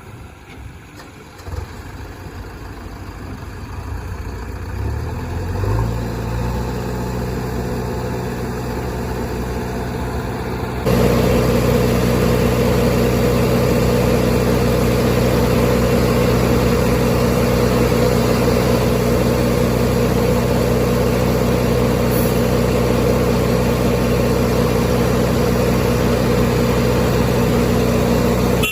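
Heavy diesel engine running. Its pitch rises as it revs about five seconds in, then it jumps suddenly louder about eleven seconds in and holds steady.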